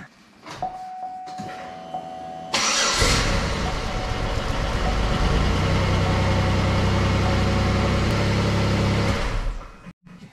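2008 Buick LaCrosse's engine being started: a steady tone first, then the engine cranks and catches about two and a half seconds in and runs steadily, starting and running properly on its newly replaced fuel lines, before cutting off near the end.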